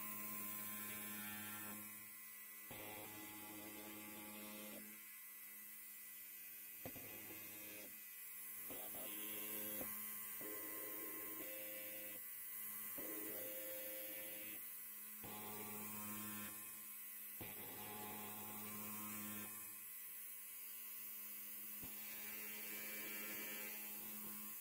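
Electric hair clipper buzzing with a low hum, the buzz dipping and changing every second or two.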